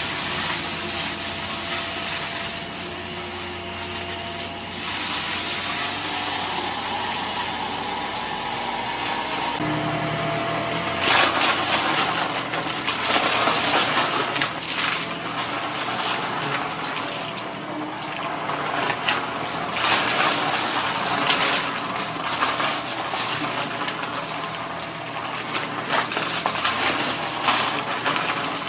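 Vacuum cleaner running steadily. From about eleven seconds in it sucks up loose dry debris, which crackles and rattles through it.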